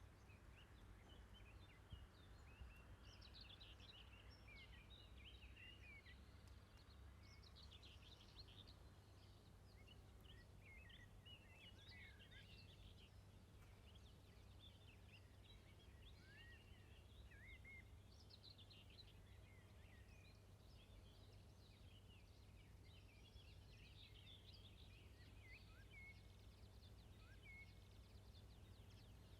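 Near silence with faint birdsong: many short chirps and whistles over a low, steady rumble.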